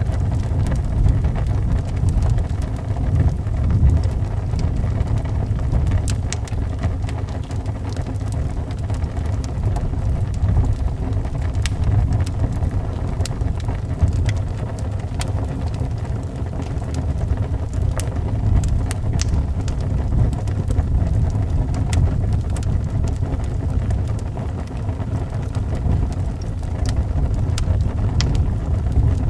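Wood fire crackling, with sharp pops scattered all through, over the steady low rumble of howling wind.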